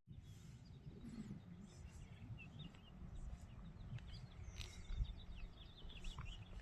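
Faint chirping of small birds, many short calls overlapping throughout, over a low rumbling background noise.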